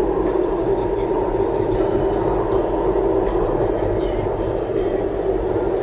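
Steady road and tyre drone with engine noise inside a Toyota Tank's cabin while driving along a highway.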